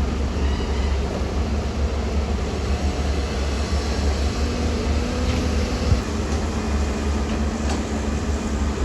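Heavy diesel earth-moving machinery running steadily with a deep, continuous rumble. There is a sharp knock about six seconds in and a fainter one near the end.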